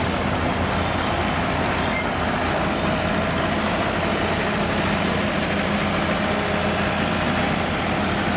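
Heavy diesel engine of a truck or construction machine running steadily at an even pitch.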